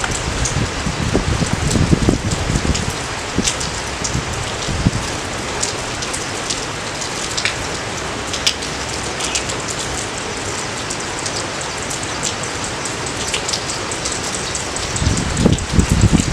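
Steady rain falling: an even hiss scattered with sharp splats of single drops. Low rumbling surges come and go in the first few seconds and again near the end.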